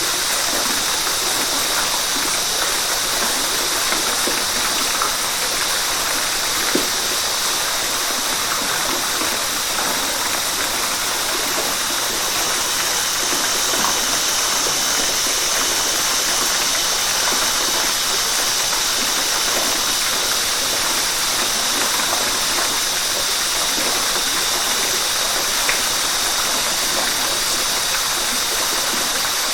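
River water rushing over rocks in a steady, even flow, with small splashes scattered through it.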